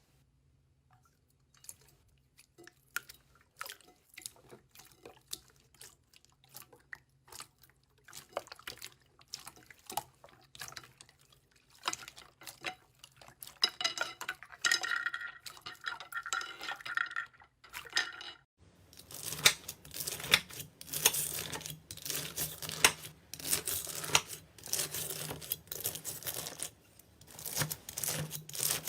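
Slime being squeezed and worked by hand, giving a run of small wet pops and clicks. About eighteen seconds in the sound changes abruptly to a denser, louder crackling.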